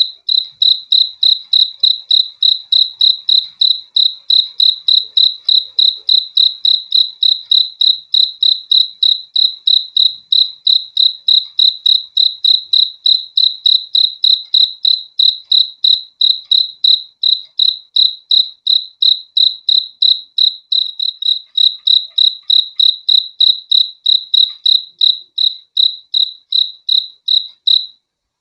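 A cricket chirping in a steady, even rhythm of about three high-pitched chirps a second, with a brief pause near the end.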